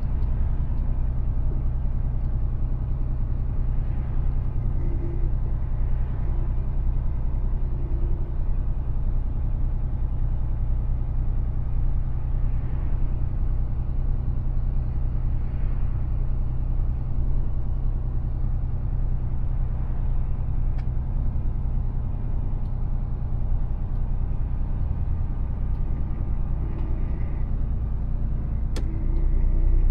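Mercedes Actros truck on the move, a steady low rumble of engine and road noise, with a faint click or two.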